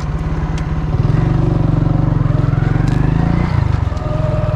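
Small motor running, speeding up about a second in and easing back down near three and a half seconds.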